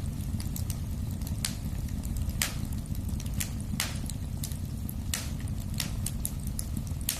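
Wood fire burning in a fireplace: a steady low rumble of flames with sharp, irregular crackles and pops, about one or two a second.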